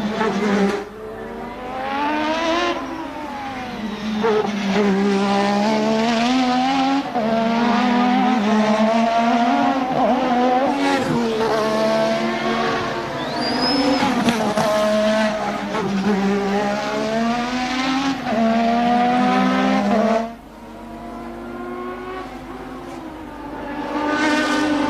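1988 Formula One car engine revving hard, its pitch climbing through each gear and dropping at the changes and under braking, over and over. It goes quieter about twenty seconds in and rises again near the end.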